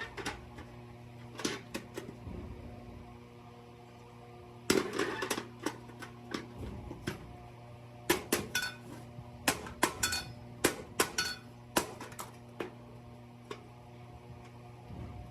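Irregular metallic clanks and knocks of thin sheet-steel buckets being handled and struck, some ringing briefly, over a steady low hum.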